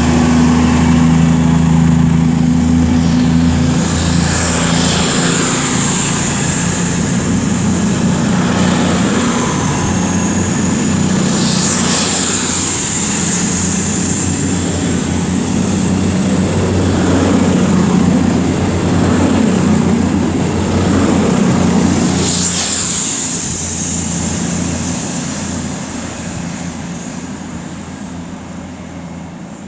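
Cross Country Voyager diesel units (Class 220 and 221) pulling out of the station, engines running, fading away over the last few seconds. A jet aircraft passes overhead, with a high whine that slowly rises in pitch.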